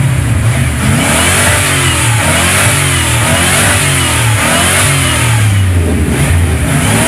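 A car engine revved hard over and over, its pitch rising and falling about once a second above a steady low rumble, for an exhaust loudness test.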